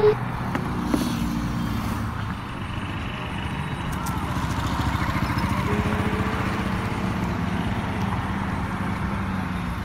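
Car engine running with a steady low hum that swells slightly in the middle.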